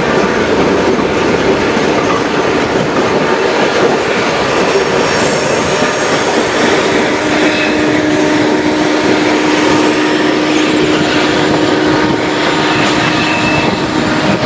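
Chepe passenger train cars running on the rails through a curve: a loud, steady rumble and rattle of wheels on track, with a steady whine joining about halfway in.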